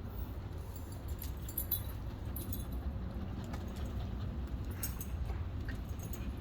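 Light metallic jingling and scattered clicks over a steady low rumble.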